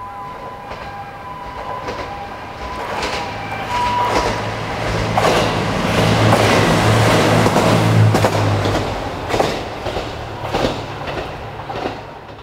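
A diesel train passing close by: its engine drone swells to a peak around the middle and fades, with the wheels clacking over rail joints. At the start, a level crossing warning bell pulses with two alternating tones, then stops after a couple of seconds.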